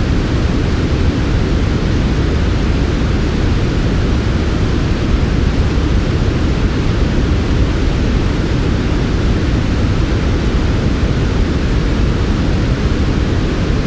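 Steady, unchanging white noise sleep track, soft and smooth, with most of its weight in the low end rather than the hiss of the highs.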